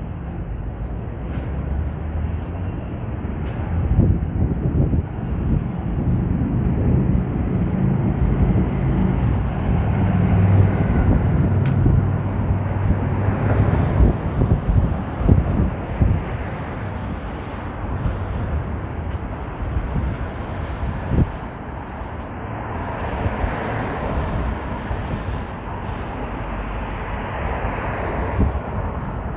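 A car driving through city streets: a steady engine and road rumble that swells and eases a little.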